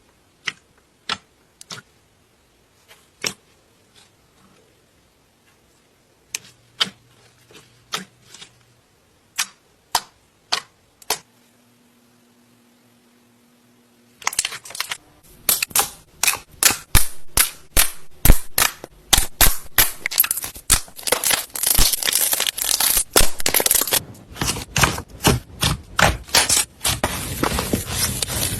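Slime being pressed and poked, giving sharp snapping pops spaced out at first, then, after a short pause about halfway, a dense, continuous crackling.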